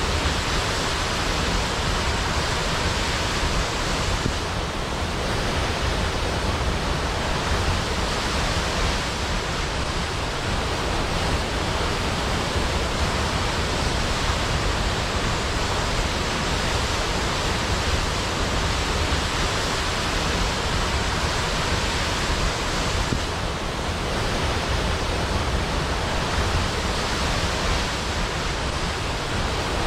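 Large waterfall, water falling heavily onto rock and a plunge pool, making a loud, steady rushing noise that barely changes.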